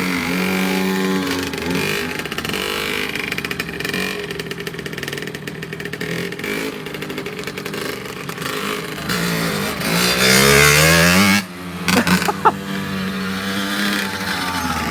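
Dirt bike engine revving up and down, rising in pitch to its loudest about ten seconds in, then cutting off abruptly. A few sharp knocks follow, then the engine runs steadily again.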